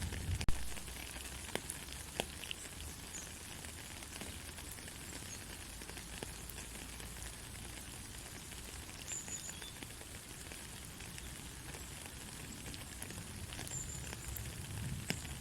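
Soft, steady rain: an even hiss with scattered ticks of drops, and one sharp click about half a second in.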